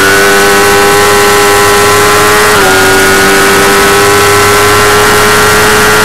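Motorcycle engine running hard at high revs, over a loud, steady rush of noise. About two and a half seconds in, its pitch dips sharply, then climbs slowly again.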